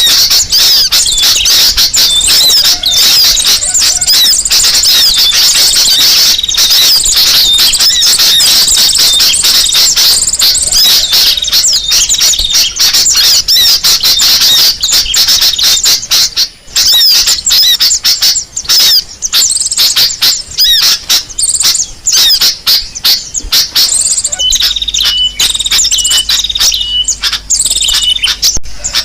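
Bird-lure recording of kolibri sogok ontong (a small sunbird-type bird) calls mixed with sooty-headed bulbul calls, played loud: dense, rapid high-pitched chirps and trills with no pause. From about 24 seconds in, a string of short repeated whistled notes comes in over a faint low hum.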